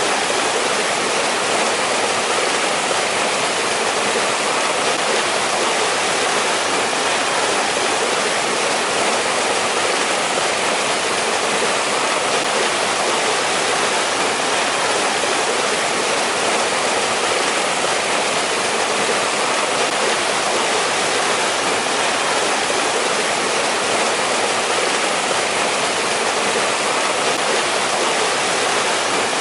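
Valley stream running, a steady, even rush of water that never changes.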